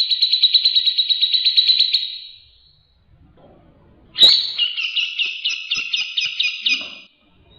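Grey-cheeked bulbul (cucak jenggot) singing loudly: a fast rattling trill that fades out about two seconds in, then after a pause a second rapid series of loud notes starting sharply about four seconds in and lasting about three seconds.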